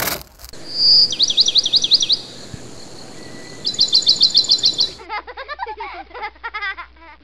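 Bird song: two runs of quick, sharply falling chirps, about six to eight a second, then a softer warbling call from about five seconds in.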